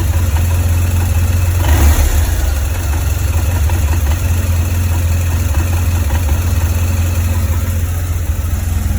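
2004 BMW R1200GS boxer-twin engine idling roughly, with a brief louder surge about two seconds in. The rough idle comes from the right cylinder head. Valve clearances, rocker arms, spark plugs and ignition coils have been checked without finding the cause.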